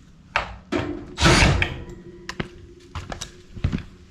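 A run of knocks and thuds, the loudest a short burst of noise a little over a second in, over a faint steady hum.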